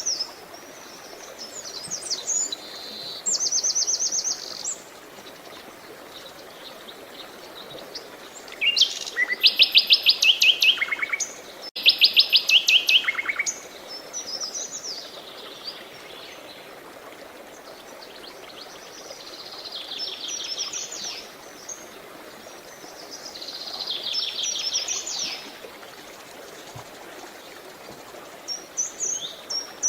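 Songbirds singing in fast trilled phrases, the loudest two about nine and twelve seconds in, over a steady wash of running water.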